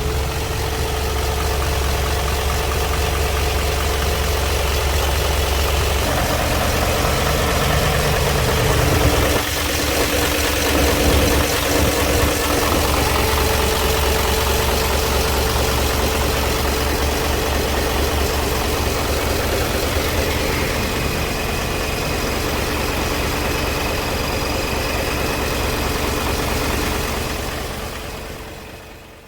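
Bulk feed truck's engine idling steadily with a deep rumble, then fading out near the end.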